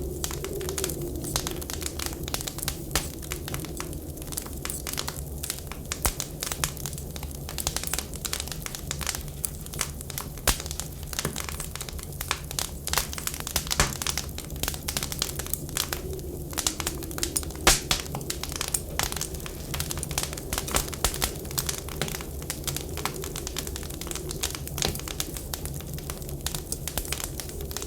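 Wood fire in a fireplace crackling, with many irregular pops and snaps, the sharpest a little past halfway, over a steady low rumble and a faint wavering whistle of wind.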